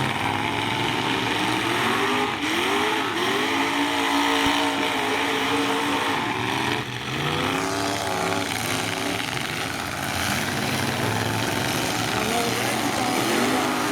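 Demolition derby pickup truck engines revving hard, several pitches rising and falling over one another as the trucks accelerate and back off.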